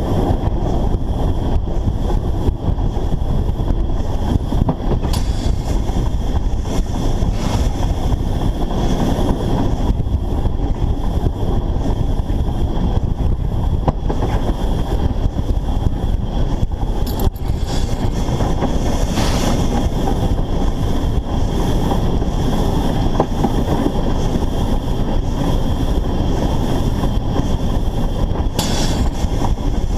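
Narrow-gauge steam locomotive under way, a loud steady rumble and rattle of the running train heard close up from a camera mounted on the engine, with wind on the microphone.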